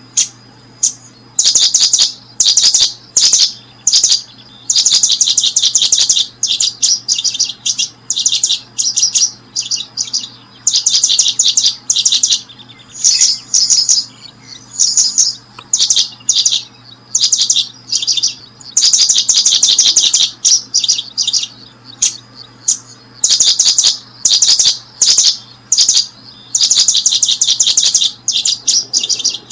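Small birds chirping in quick high-pitched bursts of rapid notes, one burst after another with only short gaps.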